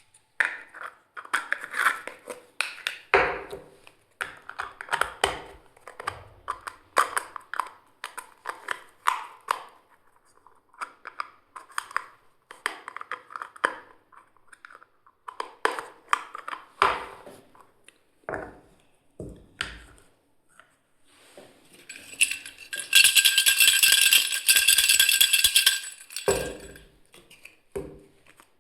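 Plastic toy kitchen pieces being handled and unpacked: irregular clicks, taps and rattles of small plastic parts. About 23 seconds in comes a louder, dense rattling noise lasting about three seconds.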